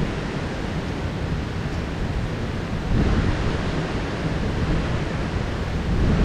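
Heavy rain downpour: a steady, even hiss of rainfall, with louder low surges about halfway through and again near the end.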